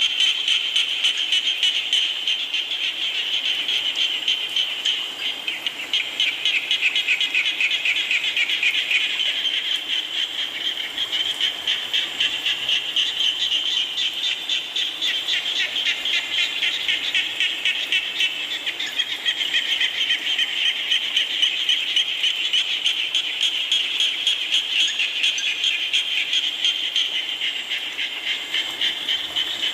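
A dense chorus of frogs calling in rapid pulsed trills, many overlapping without a break, over a faint hiss of rain.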